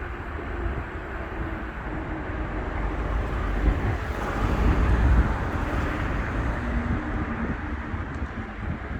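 Road traffic on a bridge: a steady low rumble of vehicles, with one passing close that builds to its loudest about five seconds in and then fades.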